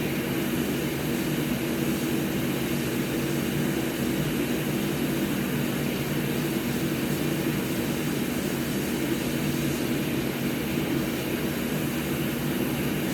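Hot air rework station blowing steadily on the board to melt the solder under an HDMI port: an even fan hum with airy hiss.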